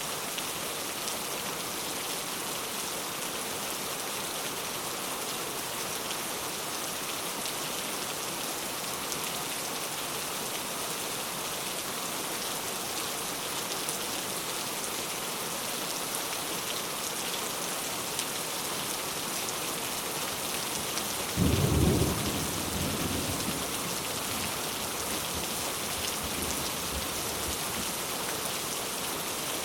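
Steady rainfall hissing on surfaces. About three-quarters of the way through, a sudden loud clap of thunder breaks in and rumbles away over a couple of seconds.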